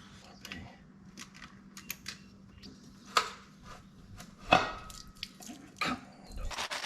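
Hand tools clinking and knocking against metal engine parts: scattered light clicks and three sharper clanks, the loudest a little past halfway. A steady rushing hiss starts just before the end.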